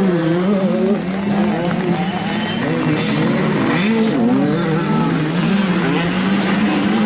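85cc two-stroke motocross bike engines revving, their pitch rising and falling as the riders work the throttle.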